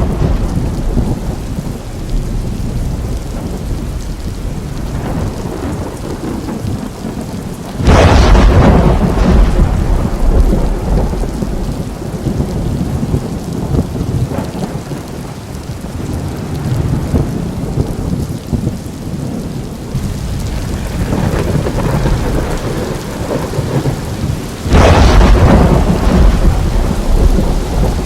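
Heavy rain with thunder: a steady rush of rain, broken by two loud thunderclaps, one about eight seconds in and one a few seconds before the end, each rumbling away over several seconds.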